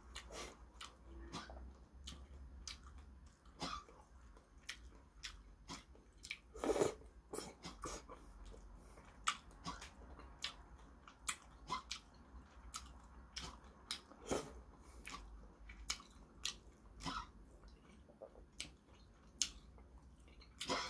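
A person chewing noodles in soup, close to the microphone, with many short wet mouth clicks throughout and a louder noise about seven seconds in.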